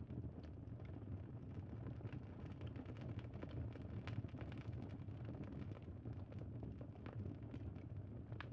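Campfire crackling: a steady low rumble of burning with frequent irregular sharp pops and snaps.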